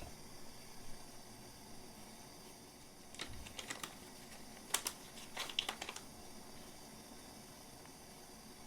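Light clicks and taps of small hard objects being handled, in two short clusters about three seconds in and around five seconds in.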